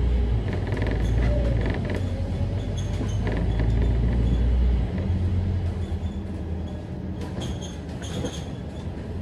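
Scania K310UD double-decker bus running with a low engine drone, while its body and fittings creak and rattle. About five seconds in, the engine note drops and the sound gets quieter, as when the bus eases off or slows.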